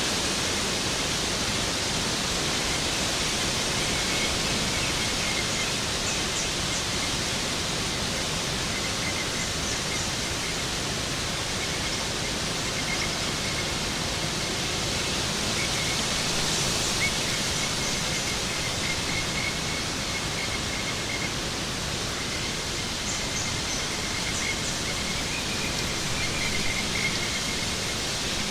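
Waterfall: a steady, even rush of falling water. Faint thin high chirps come and go over it.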